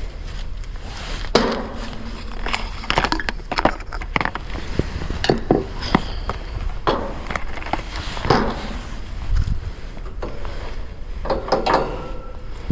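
Irregular knocks and clatters of hard objects being handled and set down, a dozen or so over the stretch, with a steady low rumble underneath.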